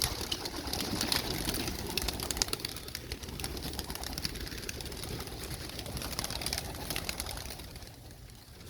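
A flock of young homing pigeons at the loft, cooing and stirring, with many quick taps and clicks throughout; the sound eases off near the end.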